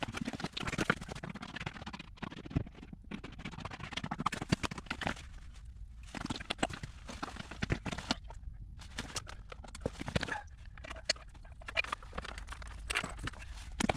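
Irregular clicking and knocking: many small taps and clatters in quick, uneven succession.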